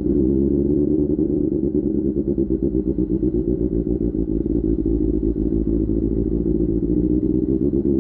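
QJ Motor SRK600's inline-four engine running at low, steady revs through an SC-Project aftermarket exhaust, with a fast pulsing beat.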